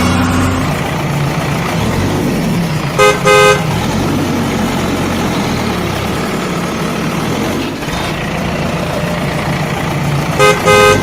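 Vehicle horn giving a quick double toot about three seconds in and again near the end, over a steady engine running.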